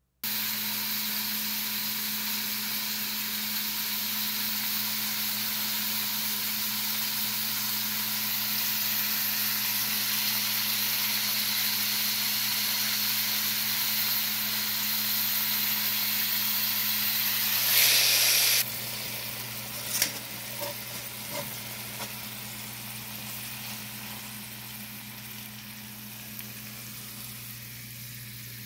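Chicken breast, asparagus and peppers frying in a stainless steel pan: a steady sizzling hiss over a low hum, with a brief louder burst about 18 seconds in. Afterwards the sizzle is quieter, with a few light clicks.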